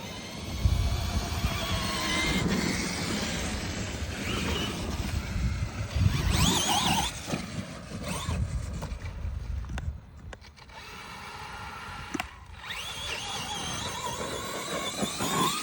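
Radio-controlled trucks' motors whining, the pitch rising and falling as the trucks speed up and slow down, with rumbling noise from the trucks running over the dirt.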